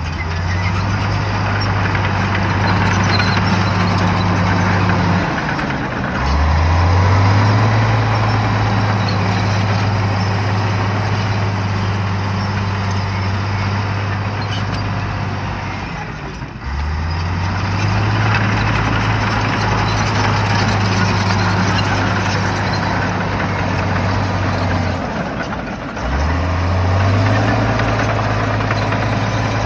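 Shantui bulldozer's diesel engine working under load. Its note drops and then climbs back up about every ten seconds, three times, with a rough hiss of machinery and debris over it.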